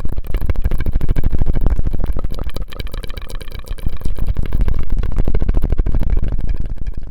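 ASMR mouth sounds made very close to the microphone: a dense, continuous run of rapid clicks.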